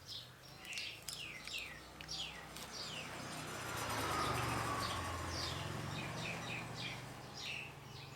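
Small birds chirping over and over in short, falling calls. In the middle a low hum and rushing noise swell up and then fade, louder than the birds.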